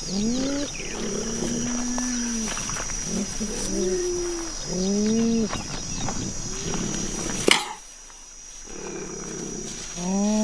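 Big-cat calls made from cheetah and cougar recordings: a run of short pitched calls one after another, a sharp click about seven and a half seconds in, then a quieter stretch before a longer call starts near the end. A steady high tone runs underneath.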